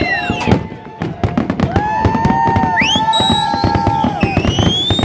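Fireworks going off in quick succession: a dense string of bangs and crackles, with whistling shells screaming over them, their pitch sweeping upward and wavering.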